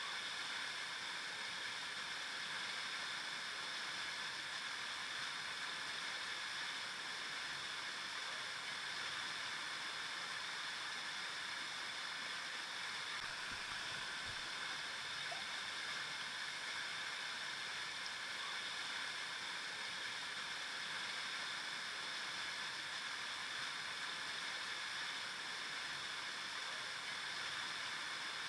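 River water flowing, a steady, even rush that is bright and hissy with little low rumble.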